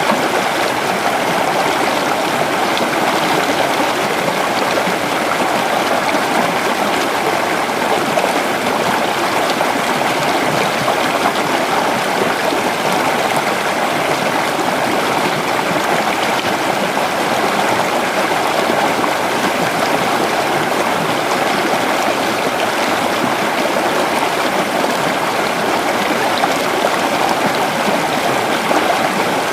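Creek water flowing over rocks, a steady rushing and babbling.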